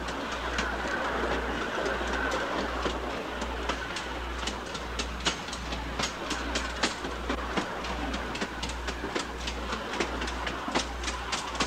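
Train running along the rails, wheels clattering with many sharp irregular clicks over a low throb that pulses about twice a second.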